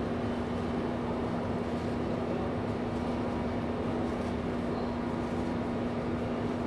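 Steady hum of a passenger train standing at the platform, its equipment running, with one constant low tone over a noisy rumble.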